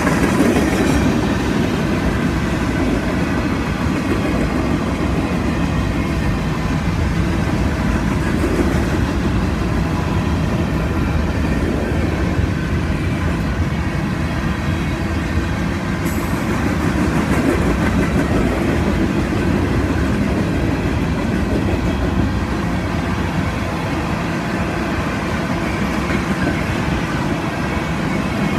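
Freight train cars (tank cars, covered hoppers and boxcars) rolling past at track speed, a steady rumble of steel wheels on the rails that holds level throughout.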